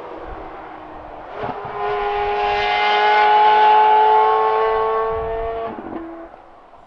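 Ferrari 430 Scuderia's V8 engine pulling steadily in one gear as the car drives by. Its note climbs slowly in pitch, swells to a peak midway through and fades away near the end.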